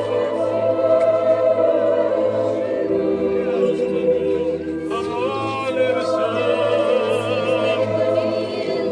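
A group of voices singing an Orthodox church hymn in several parts, with long held notes.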